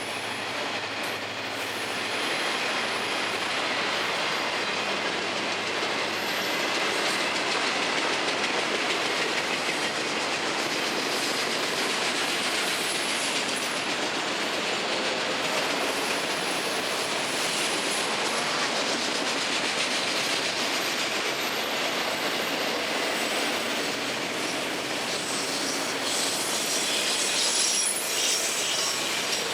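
Florida East Coast Railway freight train rolling steadily past: a continuous rumble and clickety-clack of car wheels over the rail joints, with thin high wheel squeals coming and going.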